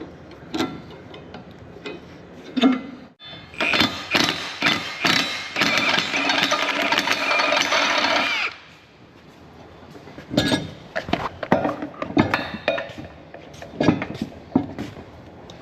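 A power tool runs in rapid hammering strokes for about five seconds, starting a little after three seconds in, against steel track parts. Separate metal clanks and knocks come before and after it.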